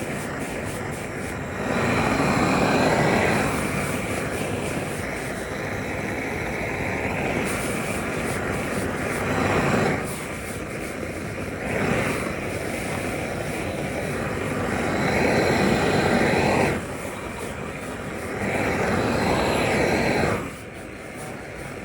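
Steady rushing machine noise of metal-colouring factory work, swelling louder in several surges of a few seconds each.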